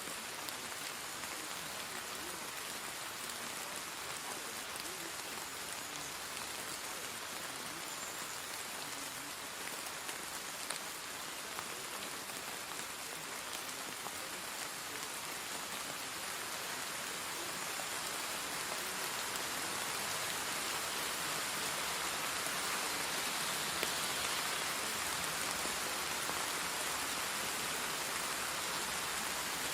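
Steady rainfall, an even hiss of drops on surfaces, growing slightly louder in the second half.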